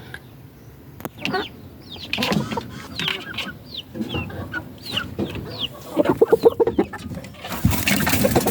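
Chickens clucking: a string of short falling calls, then a quick run of low clucks about six seconds in. A loud burst of noise comes near the end.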